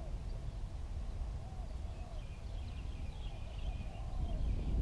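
Low rumble of wind or handling on the microphone, with faint distant voices and chatter.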